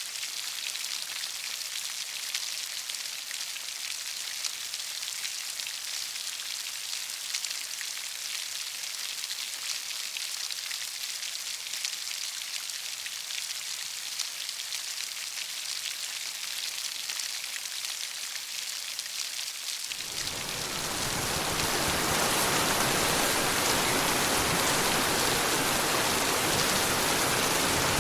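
Heavy rain, a steady even hiss. About two-thirds of the way in it suddenly turns louder and fuller, with deep low noise added, and stays that way.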